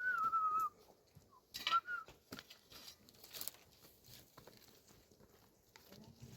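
Two short whistles: a wavering note that dips slightly in pitch for under a second, then a briefer one about a second and a half later, with soft clicks and rustling between and after.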